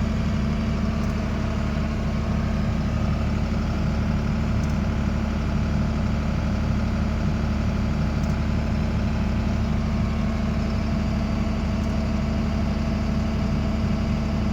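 Combine harvester running steadily: a constant engine and machinery drone with a strong low hum.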